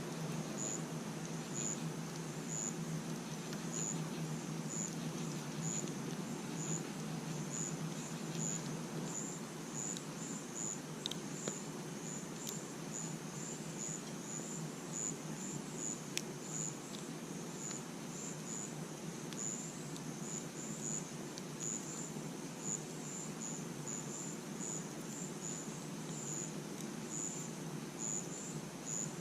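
Crickets chirping, short high pulses repeated steadily a little under twice a second, over a low steady background hiss. A few sharp pops from the campfire crackle now and then.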